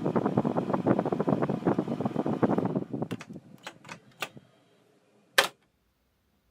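Rapid, dense clattering as objects are handled, thinning into several sharp separate clicks, then one loud knock about five seconds in, after which the sound cuts off.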